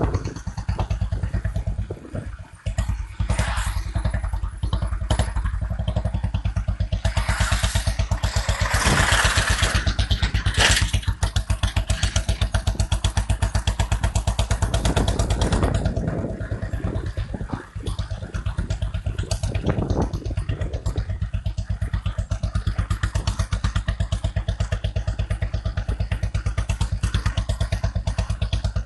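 Royal Enfield Classic 350 single-cylinder engine running through an aftermarket exhaust, with the steady, even thump of its idle. Partway through it is revved for several seconds, growing louder and fuller, then settles back to idle.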